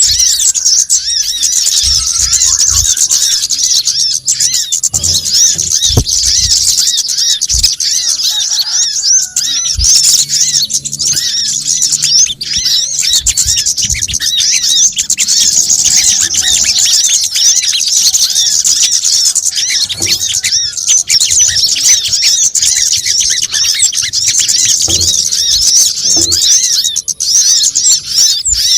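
Bird-lure recording of small songbirds, the kemade, crimson sunbird (sogon) and brown-throated sunbird (kolibri kelapa), in a dense, continuous chorus of rapid, high, overlapping chirps and twitters, played as a noisy (ribut) lure call.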